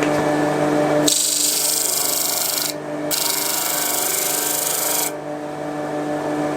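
Disc sander's motor running with a steady hum while a pair of pinned-together knife handle scales is pressed flat against the spinning abrasive disc to true their faces parallel. The grinding hiss starts about a second in, breaks off briefly when the scales are lifted, resumes, and stops about a second before the end, leaving the motor running on its own.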